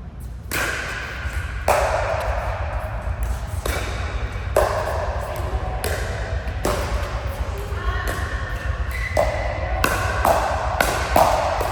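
Indoor court game rally: a series of sharp hits every second or so, each ringing out in a large, echoing hall, with short squeaks between them.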